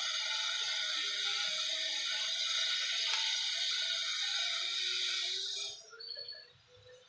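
Young canary singing a loud, fast, rattling trill, the early song of a bird just starting to sing. The song breaks off about six seconds in.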